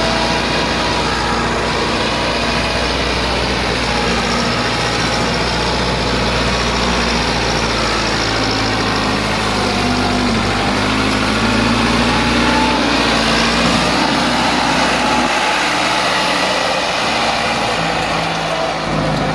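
Massey Ferguson 385 tractor's diesel engine running steadily.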